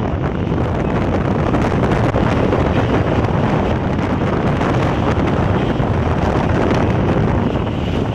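Wind buffeting the microphone held out of a moving passenger train, over the train's steady rumble on the track.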